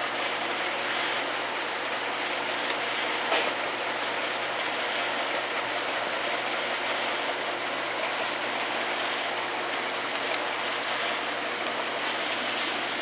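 Automatic inline bottle capping machine running on 44 oz oval containers: a steady mechanical whir and hiss with light clicks, and one sharper click about three and a half seconds in.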